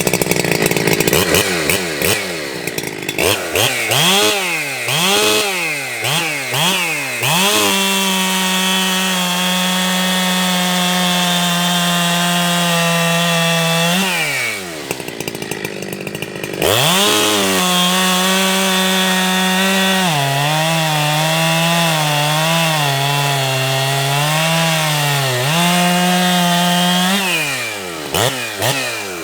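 Ported Jonsered 2165 two-stroke chainsaw revving. It is blipped several times, then held at full throttle and let back to idle about halfway. It then revs up again and pulls down under load in the cut, its pitch sagging and wavering for several seconds before it climbs back, and it is blipped again near the end.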